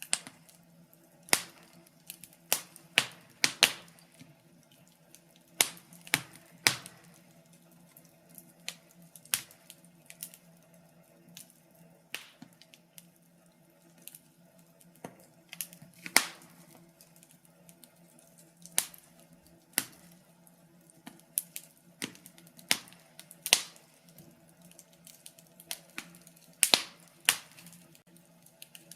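Wood fire crackling: irregular sharp pops and snaps, sometimes several in quick succession, over a faint steady low hum.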